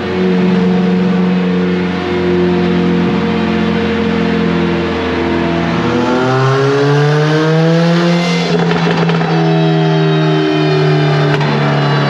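Turbocharged Honda B18 four-cylinder engine running under load on a dyno. It is held at steady engine speeds that step between levels, then revs up for about two seconds. A little after eight seconds in it lets off with a brief rush of noise and settles back to a steady speed.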